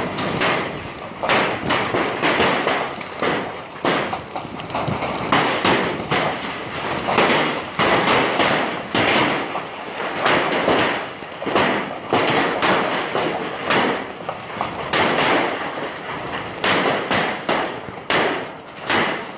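Ice cubes clattering as they tumble and fall, a dense, uneven run of hard knocks and taps with no pause.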